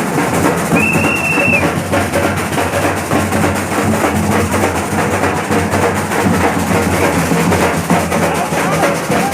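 Loud, continuous drum-led percussion music from a group of drums playing together, with one short whistle blast about a second in.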